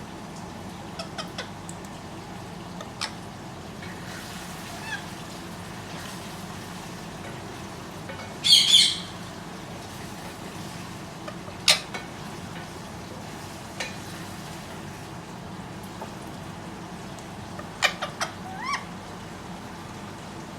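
Indian ringneck parrot giving one loud, harsh squawk about midway, with a few sharp short clicking calls before and after it and a quick cluster of short calls near the end.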